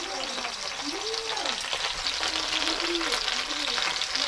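Sliced eggplant frying in oil in a pan over turned-down heat: a steady sizzle with fine crackling.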